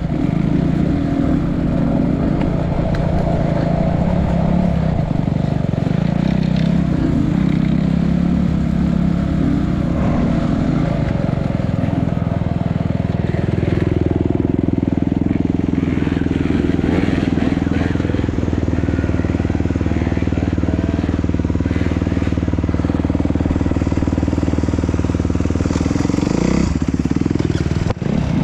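Enduro dirt bike engine running under riding load, the revs rising and falling, then held steadier from about halfway, dropping off sharply near the end.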